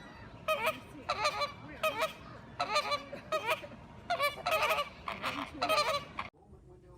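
Birds honking: about eight short, harsh calls in quick succession, cut off abruptly near the end.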